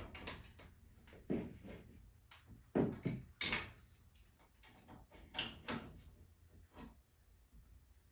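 Irregular sharp knocks and clanks of tools and door hardware being handled during garage door spring work, several in quick succession, loudest about three seconds in.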